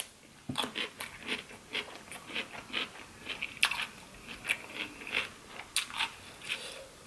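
A person chewing food close to the microphone: a steady run of short mouth sounds, a little more than two a second.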